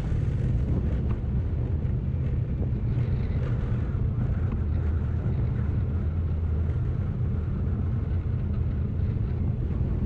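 Honda 125 Deluxe motorcycle's single-cylinder four-stroke engine running steadily while riding, with some wind on the microphone.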